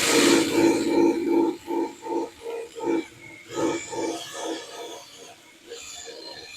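Power tool spinning a strip wheel against thick undercoating on a muffler, its note rising and falling in uneven pulses two or three times a second as the wheel grabs the tar, then dropping away about five seconds in.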